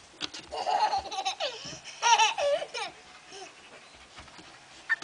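Young child laughing and squealing in two high-pitched bouts, the first from about half a second in and the second around two to three seconds in.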